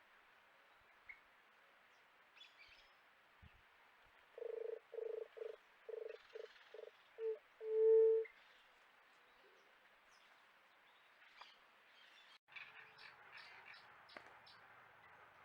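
A wild animal's call: a run of about eight short, low hooting notes that come faster and shorter, ending in one longer, louder note. Faint high chirps follow near the end.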